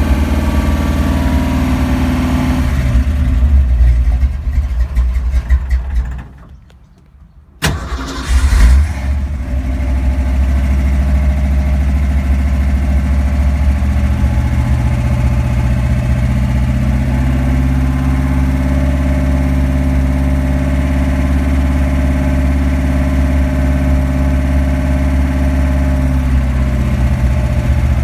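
A cold 1965 Ford Mustang engine running and revving. It goes quiet for about a second and a half, and after a sharp click it fires up again and settles into a steady idle. The idle note shifts up partway through and drops back near the end.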